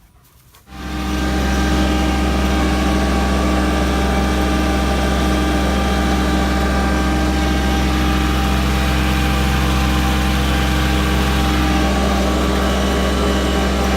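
An engine comes on about a second in, rising to full level within a second, then runs steadily at a constant idle-like speed with a deep, even hum.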